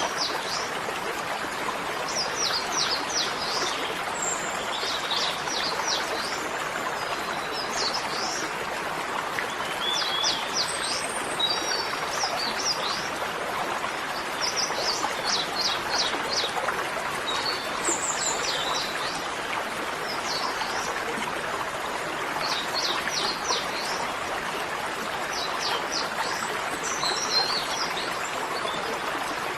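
Small birds chirping in short quick runs of high notes every second or two, over a steady rushing background noise.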